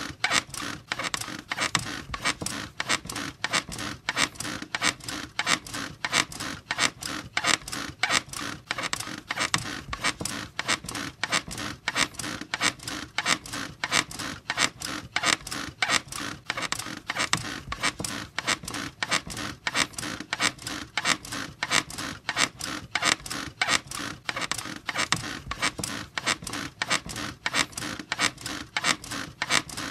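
Squeaky bed creaking over and over in a fast, even rhythm, several squeaks a second.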